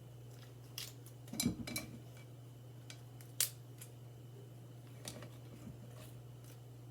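Scattered clicks and light knocks of kitchen utensils and dishes being handled, the loudest cluster with a soft thump about a second and a half in and a sharp click a little past three seconds, over a steady low hum.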